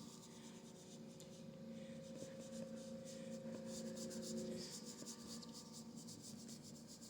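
Faint scratchy rubbing of a paintbrush worked back and forth over a canvas in short repeated strokes, laying on dark acrylic paint.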